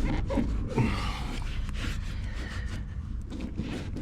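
Light knocks and scraping as a vehicle-lift block is set under a car's lift point, over a steady low hum.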